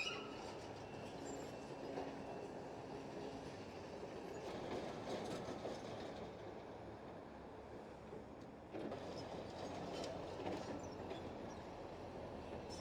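Heavy demolition equipment working: a diesel machine running under a continuous clatter of metal clanks and scraping from rubble and steel being handled, with scattered sharp knocks.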